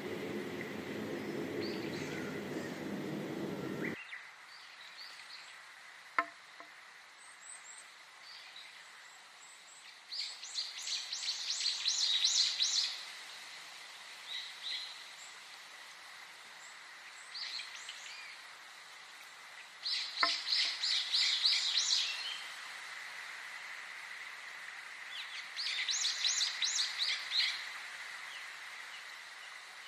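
Songbirds singing: one bird gives three loud bouts of rapid, repeated high notes, each a couple of seconds long, with scattered single chirps between. A fuller background sound cuts off abruptly about four seconds in, and two sharp clicks are heard, one near the start of the second bout.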